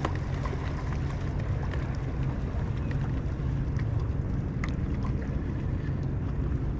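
A small boat's motor runs steadily with a low hum, with wind noise on the microphone.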